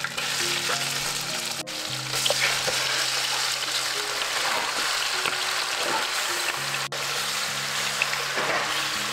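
Food frying in a hot pan: a steady sizzling hiss with scattered small crackles and pops.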